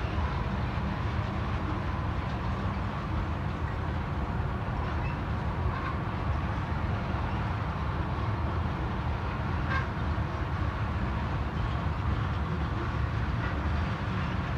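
Freight train of tank cars rolling downgrade: a steady low rumble of wheels on rail, with a faint steady high tone and a few light clicks over it.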